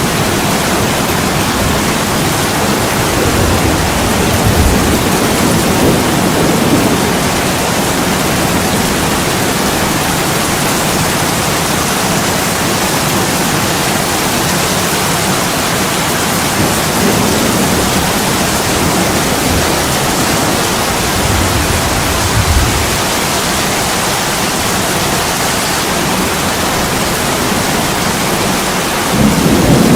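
Heavy rain pouring onto a window, a steady hiss, with a few low rumbles swelling under it, the strongest near the end.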